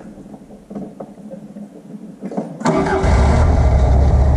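Rebuilt 2-litre Fiat twin-cam four-cylinder on dual 44 IDF carburetors started cold without choke or enrichment: after a few faint clicks it fires almost at once, about two and a half seconds in, and settles into steady running.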